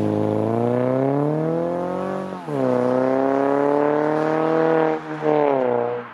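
Mazda sedan's engine accelerating away, its pitch climbing steadily, then dropping at an upshift about two and a half seconds in and climbing again, with a brief dip near five seconds.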